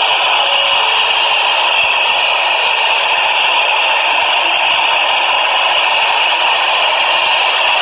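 Subway train running, a loud steady rushing noise with rattle.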